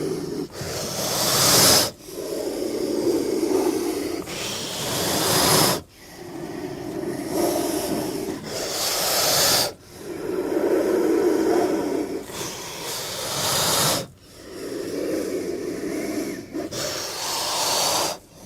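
King cobra hissing in repeated breaths, about every four seconds: each starts as a low, rasping growl and swells into a loud, high hiss that cuts off sharply. It happens five times.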